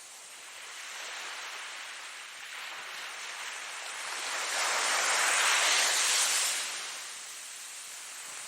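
Ocean surf: waves breaking and washing, one swell building to its loudest about five seconds in and then ebbing away.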